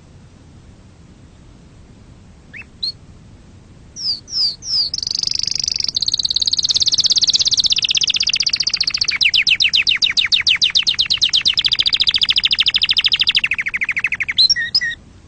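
Domestic canary singing: a couple of short chirps and a few downward-sweeping notes, then one long unbroken song phrase that turns into a fast, evenly repeated trill about halfway through, ending with a few separate notes.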